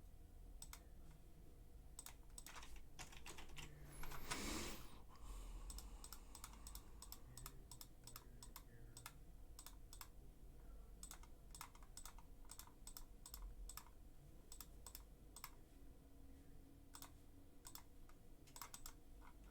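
Faint computer keyboard typing, irregular runs of keystrokes and clicks. About four seconds in there is a brief rush of noise, the loudest moment.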